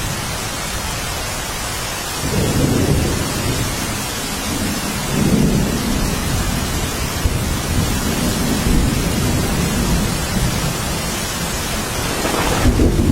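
Steady rain hissing, with low rolling thunder rumbling underneath that swells about two seconds in and again about five seconds in.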